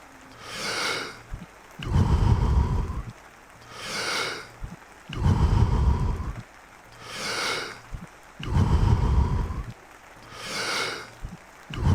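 A man breathing deeply and rhythmically in Wim Hof power breathing: about four full breaths, each a hissy breath in followed by a louder, lower rushing breath out, one every three seconds or so.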